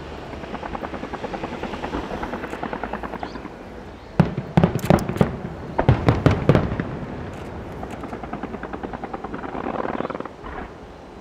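Aerial fireworks display: runs of rapid, even crackling, with a cluster of loud shell bursts in the middle, then more crackling.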